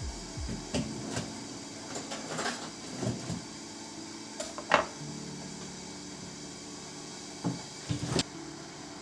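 Scattered small clicks and knocks of household objects being handled, the sharpest click a little under five seconds in and a quick double knock near the end, over a faint steady hum.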